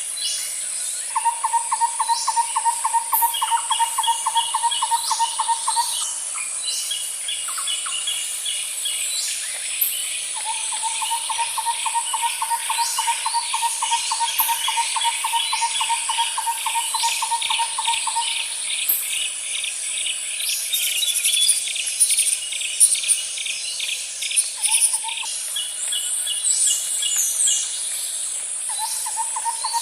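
Night-time wildlife chorus: a constant high-pitched insect drone, with series of rapid chirps through the middle. A long, even trill at a lower pitch runs for about five seconds near the start, again for about eight seconds from ten seconds in, and starts once more near the end.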